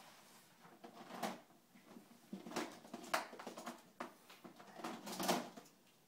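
Magformers plastic magnetic building tiles being handled and snapped together, a few separate clicks and rattles over several seconds.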